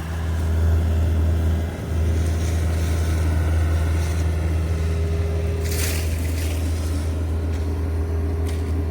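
Steady low drone of a pickup truck running, with a brief hiss about six seconds in.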